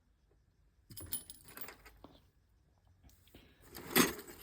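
Small metal and plastic budgie toys being handled, clinking and jangling in short bursts about a second in and again, louder, near the end.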